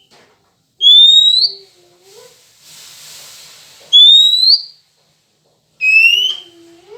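Three clear rising whistles, each under a second long and spaced about two and a half seconds apart. This is the oriental magpie-robin (kacer) call used as a lure to provoke male birds into answering. A soft hiss sounds between the first and second whistle.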